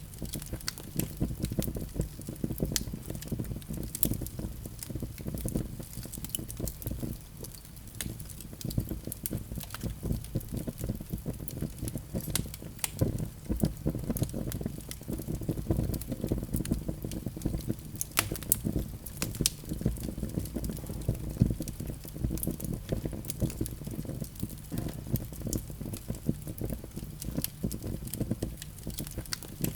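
Wood fire burning in a fireplace: a steady low rumble of flame with irregular snaps and crackles of burning wood.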